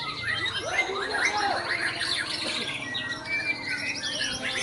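Many birds chirping and calling at once: a dense, overlapping jumble of short chirps, trills and squawks.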